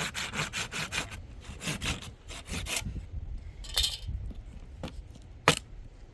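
Rapid rasping back-and-forth strokes, about five a second, in two short runs, like a hand saw or rasp working wood. A single sharp knock comes near the end.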